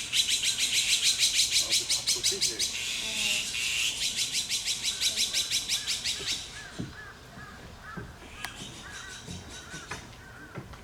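Meerkats calling: a fast, harsh rasping of about six pulses a second for roughly six seconds, then a run of short, high, repeated chirps.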